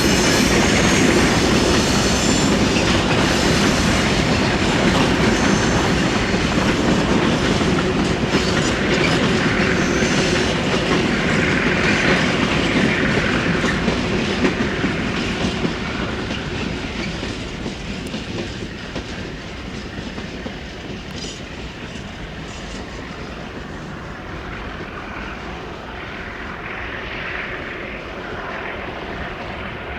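Train wagons rolling past, wheels clattering over the rail joints. The noise stays loud for about the first fifteen seconds, then fades steadily as the train moves away.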